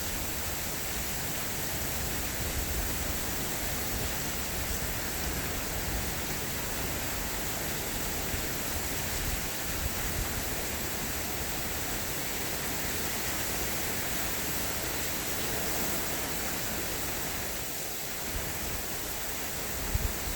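Steady heavy rain, a dense even hiss, with a few short low thumps near the end.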